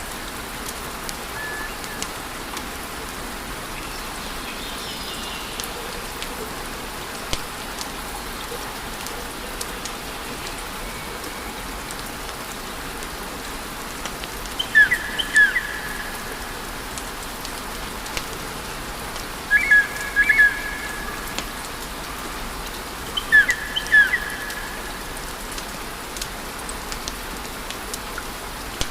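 Wood fire burning with a steady hiss and scattered small crackles and pops. Three times, about 15, 20 and 24 seconds in, a short cluster of high chirping whistles stands out above the fire.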